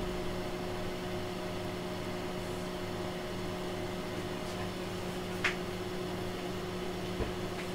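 Steady hum and hiss of running bench test equipment, with a few fixed tones held throughout, and one small click about halfway through.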